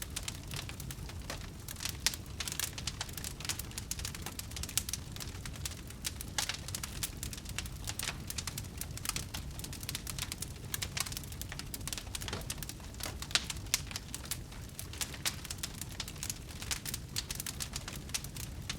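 Wood fire crackling: many irregular sharp snaps and pops over a low, steady rumble.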